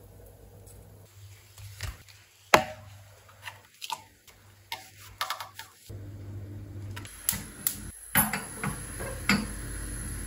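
Household handling sounds: scattered clicks and knocks of objects being picked up and set down, one sharper knock about two and a half seconds in, with a steady low hum joining from about six seconds in.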